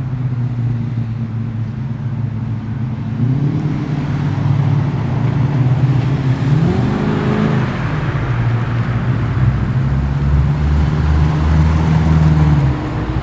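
A loud performance car engine running at idle and revved twice: a short rise about three seconds in, then a bigger rev that climbs and falls back near the middle. It is throbbing low as the car moves off, and the sound drops away shortly before the end.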